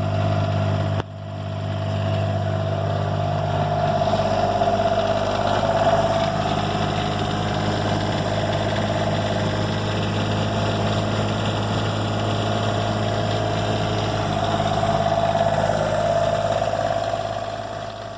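Motorhome's diesel generator running steadily at constant speed, with a steady hum, its exhaust freshly repaired. It fades away at the very end.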